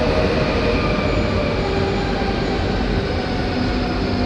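SNCF TER regional train rolling along the platform of an underground station as it arrives: a steady loud rumble of wheels on rail with thin whining tones over it.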